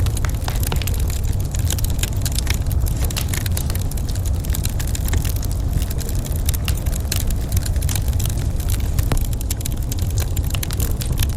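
Wood fire crackling in a fireplace: many sharp pops and snaps over a steady low rumble.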